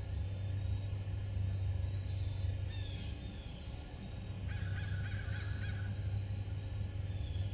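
A bird calls in a quick run of about six repeated notes a little past the middle, over a steady low rumble. A small bird gives a short falling chirp about three seconds in.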